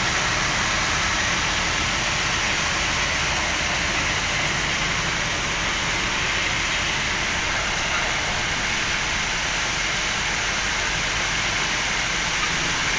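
Rain falling steadily, a constant even hiss with no breaks.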